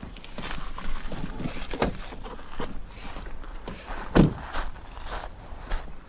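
Footsteps and the clicks and clunks of a car's hood being released and lifted open, the loudest clunk about four seconds in.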